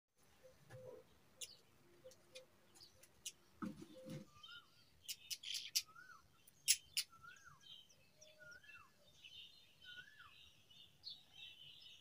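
Brown rock chats calling at the nest at feeding time: sharp high chirps, loudest a few seconds in, and a short whistled note that rises and falls, repeated about once a second. A steady high hiss comes in near the end.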